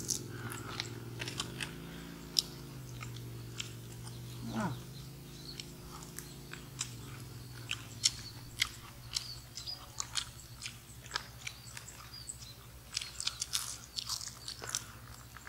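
Dry-fried catfish being chewed, a run of short, crisp crunches that come thicker near the end, over a steady low hum.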